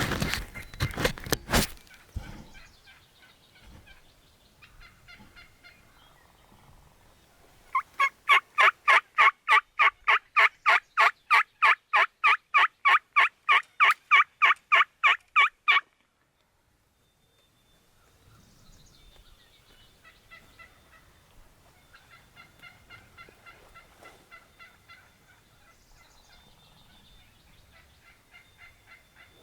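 Wild turkeys gobbling: a loud burst at the start, then a long, even run of about three loud strokes a second for roughly eight seconds. After a brief drop-out, fainter calls follow.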